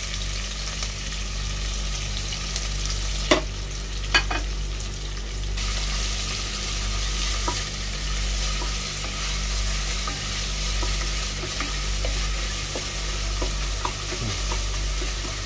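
Sliced onions sizzling in hot oil in a pan as they are stirred and sautéed. Two sharp knocks come about three and four seconds in.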